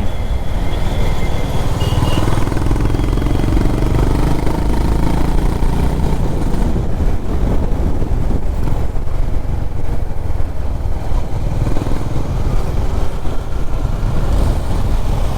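A Honda CB350RS's single-cylinder engine running steadily on the move through city traffic, under a constant low wind rumble on the rider's microphone.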